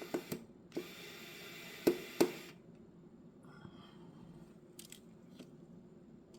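Small sharp clicks with a stretch of scraping, two louder clicks about two seconds in, from handling phone parts and small repair tools during an iPhone 13 mini repair. After that only a few faint ticks.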